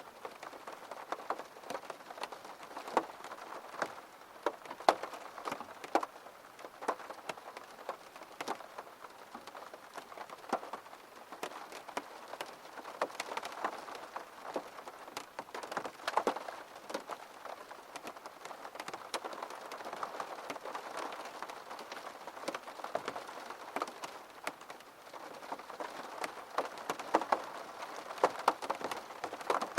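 Steady rain falling on a surface, with many distinct drops pattering irregularly.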